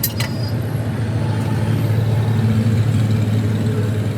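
A motor vehicle's engine running steadily with a low hum that swells a little in the middle. A couple of sharp clicks come right at the start.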